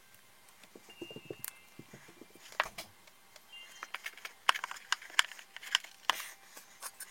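Small hard parts of an RC car's shock absorbers being handled during assembly: irregular sharp clicks and taps, busiest in the second half.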